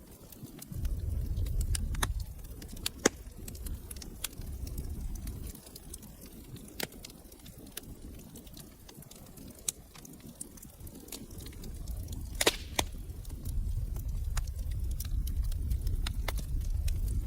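Wood fire in a fireplace crackling, with irregular sharp pops and snaps, a louder pop about 3 seconds in and another about 12 seconds in, over a low roar of the flames that swells, eases off around the middle, and builds again near the end.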